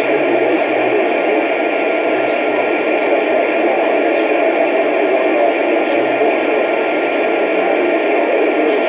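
Steady hiss of static from a two-way radio receiver, cut off above the voice range, with at most a faint, garbled voice buried in it.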